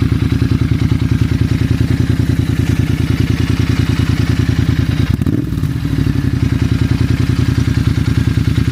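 Royal Enfield Interceptor 650's parallel-twin engine idling through an aftermarket ZARD high-mount exhaust, with a steady, even pulse. The sound briefly dips and wavers about five seconds in, then settles back to the same idle.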